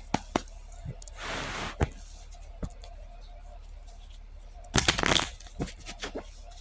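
A deck of cards being shuffled and handled: a soft rushing shuffle about a second in and a quick flurry of card snaps around five seconds in, with scattered clicks between.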